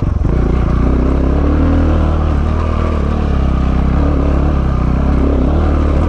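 KTM 690 Enduro's single-cylinder engine running steadily at low revs, lugging the bike up a trail climb. A brief dip in the engine note right at the start.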